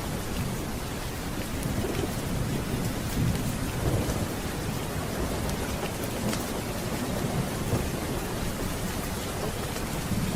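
Steady heavy rain with low rolling thunder rumbling, swelling about three to four seconds in and again near the end, and a few faint crackles.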